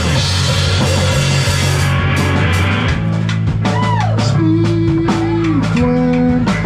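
Live rock band playing loudly with drum kit and guitar. A dense, crashing wash fills the first few seconds. About three seconds in it thins to separate drum hits under held notes that slide downward in pitch.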